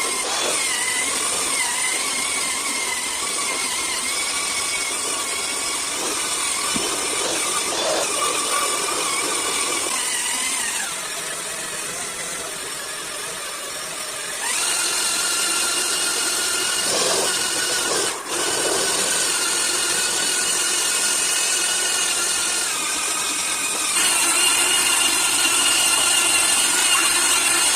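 Electric wall sander running on dried wall putty with a steady motor whine and a high hiss. The whine drops in pitch and level about eleven seconds in, then comes back stronger from about fourteen seconds and again near the end as the tool is worked over the wall.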